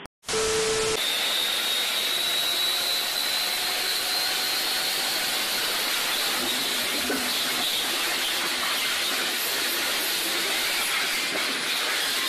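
Shelby GT500's supercharged V8 running hard at full throttle on a chassis dynamometer: a loud, steady blast of engine and roller noise with a high whine rising slowly in pitch.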